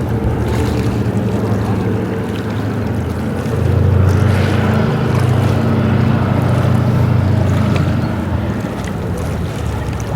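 Float plane's radial piston engine running, growing louder about three and a half seconds in and easing off near the end, with some wind noise on the microphone.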